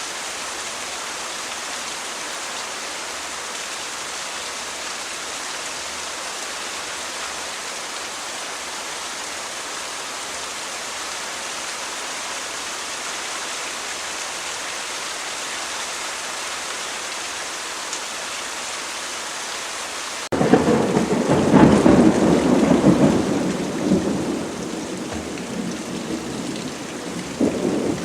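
Steady rain falling, then about two-thirds of the way in a sudden loud thunderclap breaks in and rolls on as rumbling thunder that slowly fades, swelling once more near the end.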